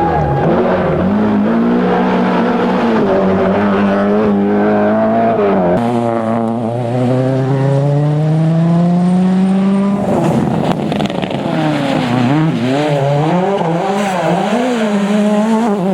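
Rally car engines at racing revs, across edited shots. First an engine held high and steady; then, about six seconds in, a car accelerating with the pitch climbing for about four seconds; then, after another cut, an engine revving up and down repeatedly through gear changes and braking.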